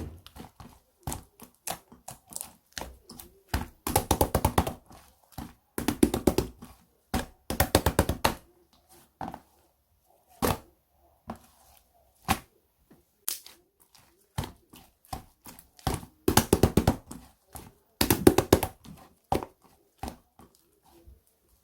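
Green jelly-textured slime being squeezed and pressed by hand, giving several runs of rapid wet clicking pops with scattered single pops between.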